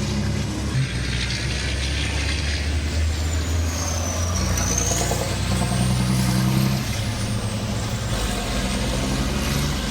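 Heavy diesel truck engines running steadily, with a thin high whistle that dips and then rises in pitch midway through.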